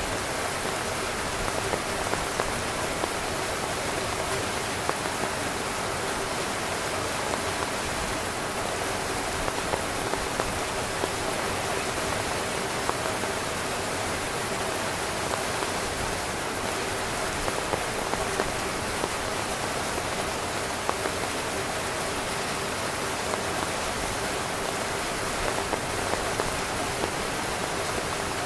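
Heavy rain drumming steadily on a tent's fabric, a dense hiss with many individual drops pattering on top.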